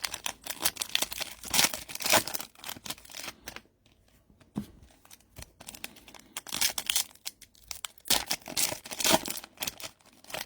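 Plastic wrapping being torn and crinkled by hand, in two bouts of irregular rustling with a pause between.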